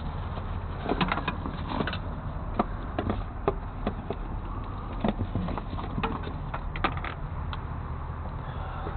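Irregular clicks and clanks of hard objects being handled, a dozen or so spread over several seconds, over a steady low engine rumble.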